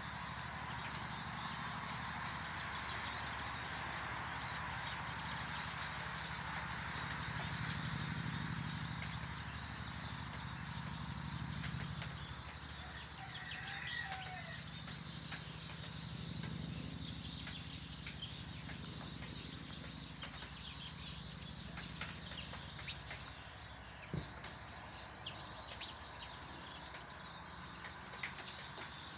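Small garden birds chirping and twittering around a bird table over a steady low rumble. A few sharp clicks come in the second half.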